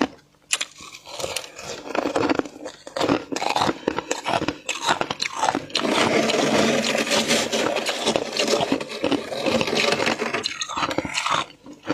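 Flaky frost being scraped and crunched. Sharp, separate crackling crunches come first, then a dense, unbroken stretch of crunching from about halfway through lasting some four seconds, and a few more crunches near the end.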